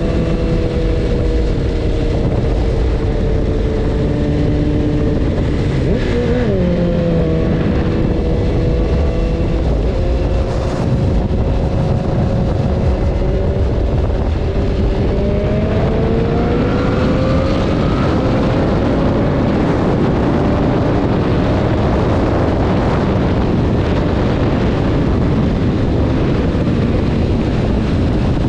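BMW S1000RR motorcycle's inline-four engine running under way, over heavy wind rush. Its pitch dips sharply about six seconds in, then climbs steadily around the middle as it speeds up.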